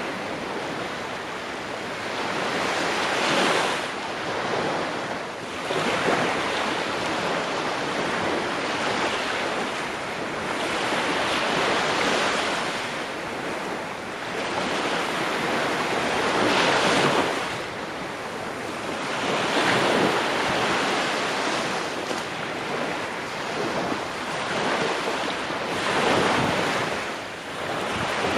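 Ocean waves breaking on a shore, the surf swelling and easing every few seconds.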